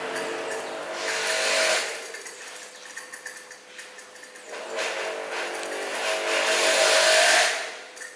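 A motor running steadily with a humming pitch. Twice a louder rushing hiss swells over it, briefly about a second in and longer near the end, then fades.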